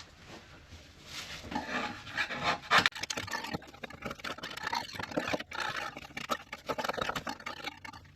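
Hand paint scraper scraping loose, peeling paint off a water-damaged caravan ceiling panel in short, irregular strokes, starting about a second in.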